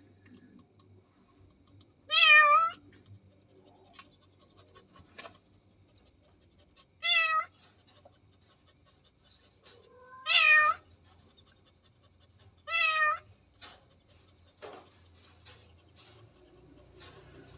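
A pregnant cat close to giving birth meows four times, short wavering calls a few seconds apart.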